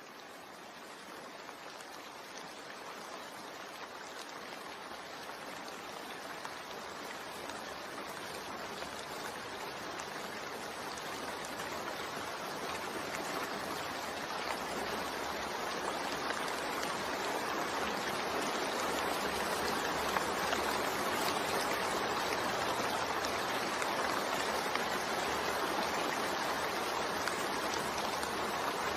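Steady rain falling, a dense even hiss of drops that fades in gradually, growing louder through the first two-thirds and then holding level.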